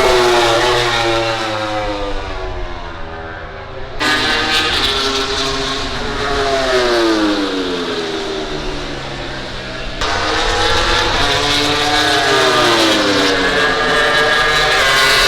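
MotoGP racing motorcycle engines at high revs. In three stretches the engine note drops as a bike slows, then climbs again as it accelerates, with sudden jumps in the sound about 4 and 10 seconds in.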